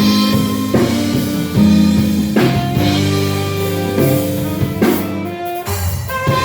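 Live band playing, with guitar and drum kit over sustained bass notes.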